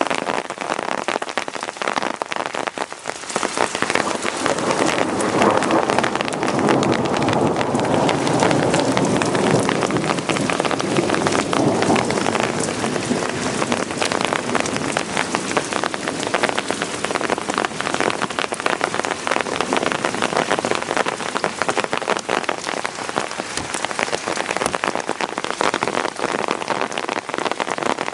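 Rain from a thunderstorm falling steadily, many drops striking surfaces in a dense rush of clicks; it grows louder about three to four seconds in.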